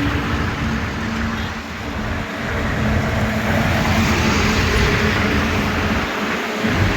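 Highway traffic: the engines and tyre noise of passing trucks and cars, a steady rush that eases briefly twice.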